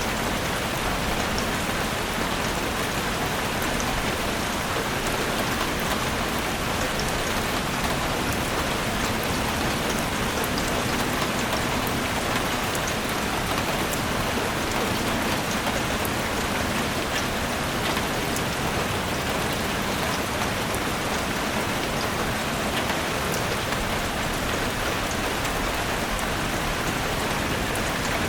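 Steady rain falling in a forest, a dense even hiss with many individual drops pattering on surfaces.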